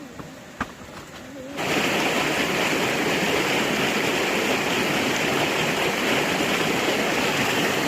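Steady rush of running water, as from a tap or spout, starting suddenly about a second and a half in.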